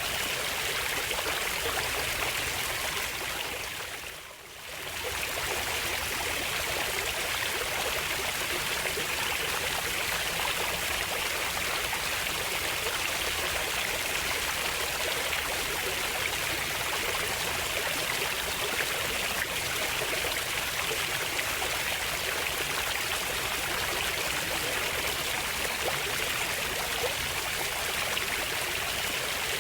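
Flowing water, a stream running with a steady, even rush. The sound briefly dips and swells back about four seconds in.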